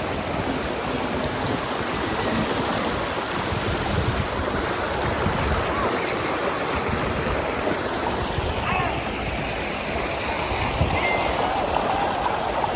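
Steady rush of river water, an even unbroken noise.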